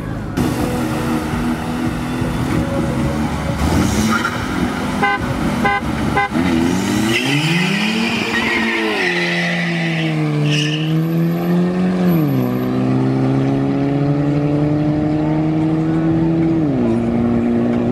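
Street-race car engines launching and accelerating hard. One engine's pitch climbs and drops back three times as it upshifts through the gears. There are a few sharp cracks about five to six seconds in.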